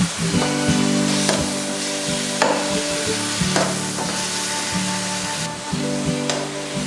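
Food sizzling in a hot pan as it is stirred, with a few sharp knocks of the utensil against the pan, over background music.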